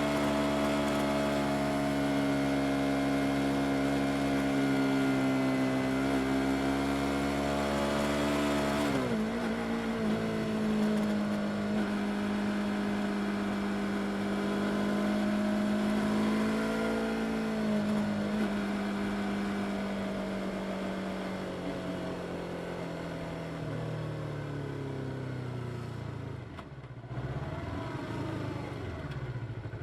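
Yamaha R25 motorcycle's parallel-twin engine running under way, holding a steady note, then dropping sharply in pitch about nine seconds in as it shifts up. Later the note slowly falls as the bike slows, settling to a low, steady run near the end.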